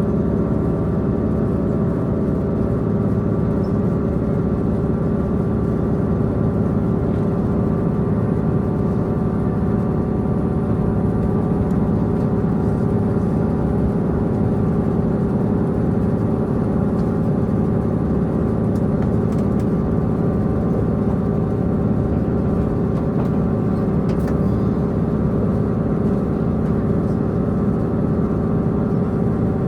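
Diesel multiple-unit train's diesel engine running steadily with several held tones, mixed with the rumble of wheels on rail, heard from inside the passenger car.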